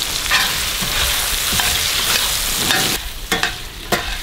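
Tomatoes, cashews and pumpkin seeds sizzling in hot oil in a steel kadai, with a steel ladle stirring and scraping against the pan. The sizzle drops off for about a second near the end, broken by two sharp clinks.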